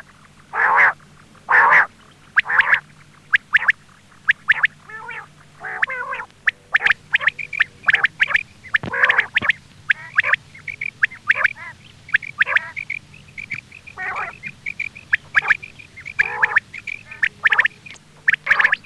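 Quail calling: a rapid, irregular run of short, sharp calls, over a faint steady hum.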